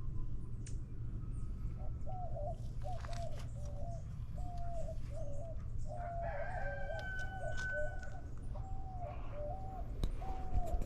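Birds calling: a long series of short, repeated calls, about two a second, starting about two seconds in, with one longer, higher held note in the middle, over a steady low hum.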